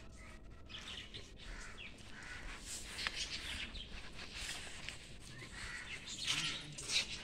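Birds chirping faintly in the background.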